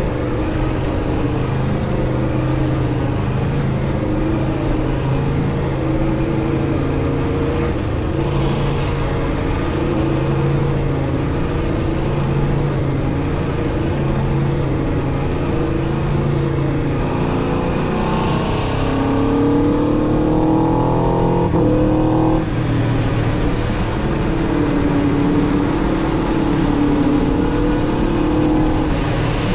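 Aprilia RSV4 RR's V4 engine through its stock exhaust, heard from the bike while riding at a steady pace. A little past halfway the revs climb for a few seconds, then drop sharply and settle back to cruising.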